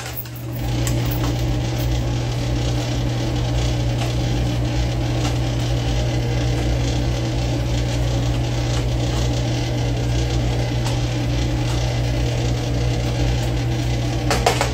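Onion-and-ginger-garlic masala frying in a pan, a steady sizzle over a low hum. A few sharp clicks come near the end.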